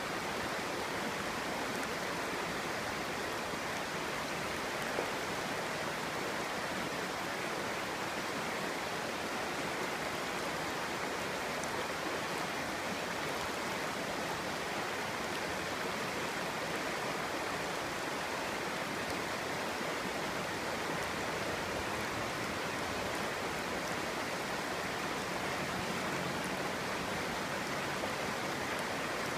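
Clear stream babbling and rushing steadily over stones, an even murmur of running water.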